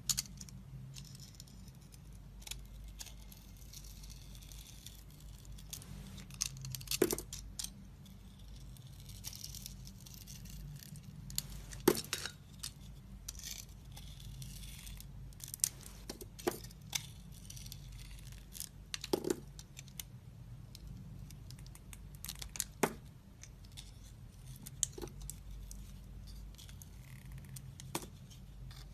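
Knife carving a bar of soap: soft scraping and shaving with sharp, crisp cracks every few seconds as pieces of soap snap away.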